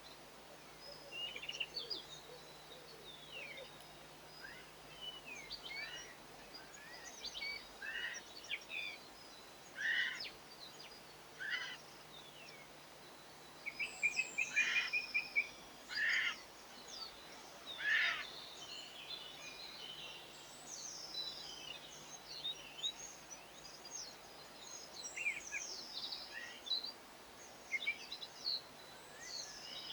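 Small garden birds chirping and calling: many short, overlapping chirps and whistles, with a quick trill about halfway through.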